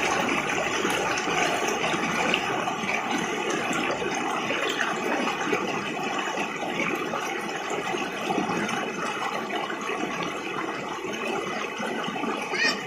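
Forest river flowing steadily over rocks, an even rush of water.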